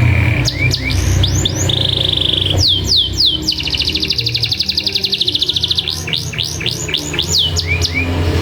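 Domestic canary singing. It gives quick downward-sweeping chirps, a short fast trill, then a long rolling trill of rapid repeated notes through the middle, and returns to the sweeping chirps near the end. A steady low hum runs beneath it.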